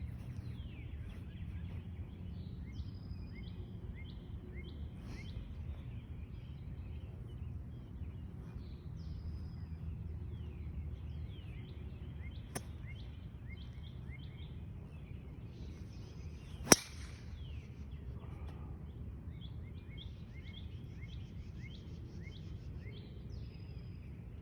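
A single sharp crack of a golf club striking the ball off the tee about two-thirds of the way through, the loudest sound. Around it, small birds chirp repeatedly over a low steady outdoor rumble, with a faint click somewhat earlier.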